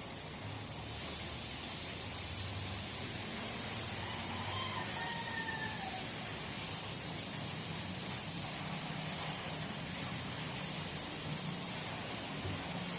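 Automotive paint spray gun hissing as topcoat is sprayed on a car's body, the hiss swelling about a second in and again twice more with each pass.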